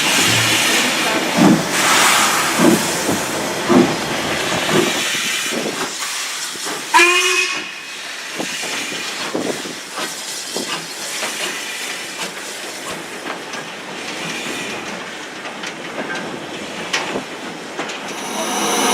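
Steam locomotive hissing steam, with puffs about once a second in the first few seconds and a short whistle about seven seconds in.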